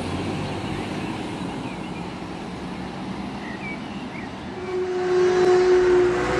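Fire trucks driving past with a steady rumble of engines and traffic. About five seconds in, a loud, steady horn or siren tone starts and holds.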